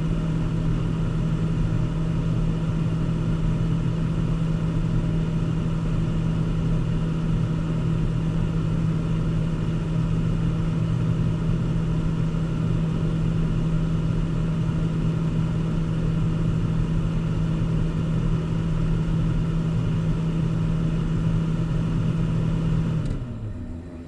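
Car engine and road rumble heard from inside the moving car: a steady drone at an even pitch. Near the end the drone falls in pitch and fades.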